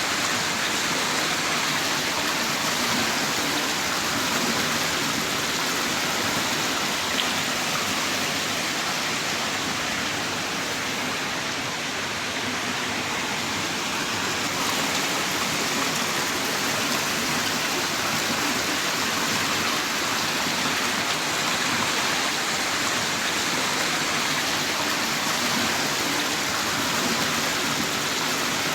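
Heavy rain falling steadily, a dense, even hiss of a downpour with no let-up.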